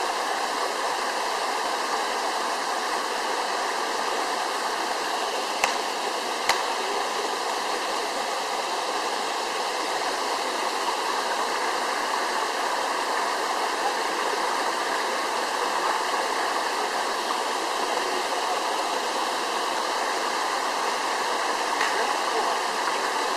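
Waterfall's rushing water, a steady, even roar of falling water. Two brief sharp clicks sound close together about a quarter of the way in.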